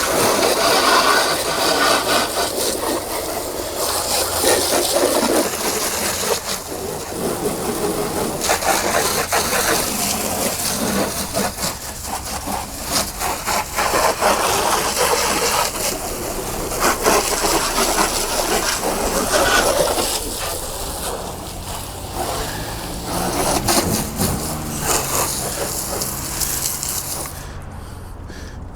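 A brush scrubbing a car wheel: a rough, uneven scraping in quick strokes with short breaks, working off heavy brake dust.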